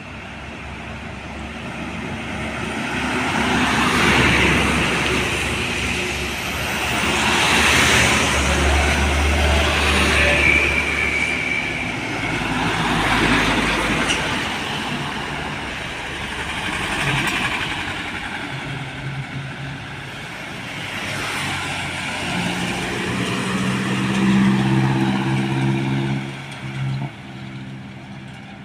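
Trucks and other vehicles passing on a road one after another, each pass swelling and fading. In the last third, a heavy diesel engine hums steadily close by.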